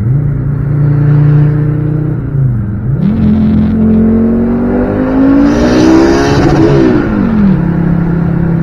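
Volvo 850 T-5R turbocharged inline-five engine running, then revving up with its pitch climbing steadily for several seconds before dropping back and settling to a steady note near the end.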